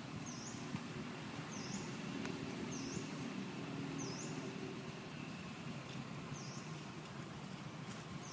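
A bird's short high call, a quick down-and-up chirp repeated about once a second, over a steady low hum.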